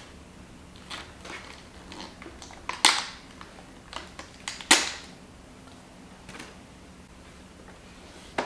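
Scattered clicks and knocks of a new Roomba robot vacuum and its parts being unpacked and handled, with two sharp louder snaps about three and almost five seconds in.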